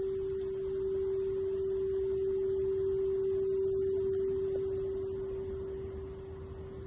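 A singing bowl ringing with one steady, pure tone that slowly fades toward the end.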